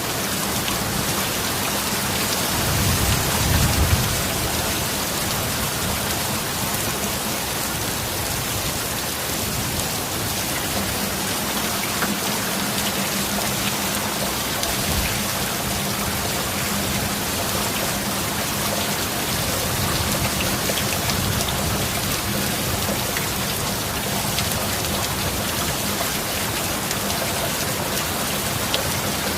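Steady heavy rain, with a low rumble of thunder swelling and fading about three to four seconds in.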